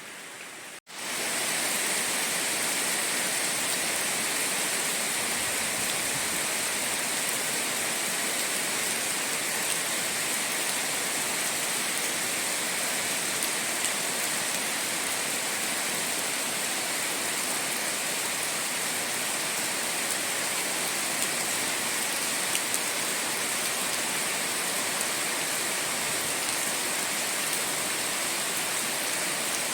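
Steady rain falling, an even unbroken hiss that comes in after a brief gap about a second in.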